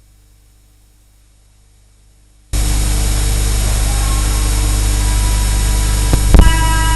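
Faint mains hum, then about two and a half seconds in a loud, steady hiss with hum suddenly cuts in: heavy noise from an old recording or sound system. A couple of sharp knocks come near the end.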